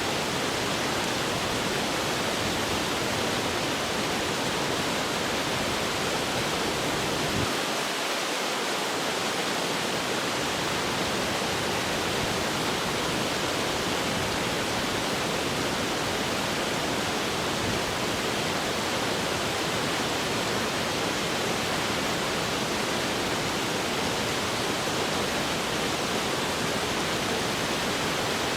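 Steady rush of flowing water, an even hiss-like wash with no pauses; the low rumble thins briefly about eight seconds in.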